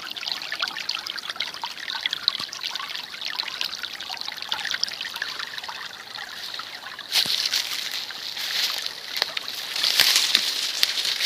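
A small spring stream trickling and babbling over its bed. About seven seconds in, a louder, hissier rush sets in and swells again near the end.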